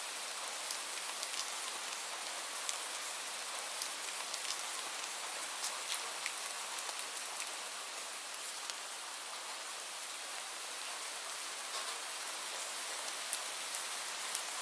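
Steady rain falling, an even hiss with many separate drops ticking sharply on a hard surface at irregular moments.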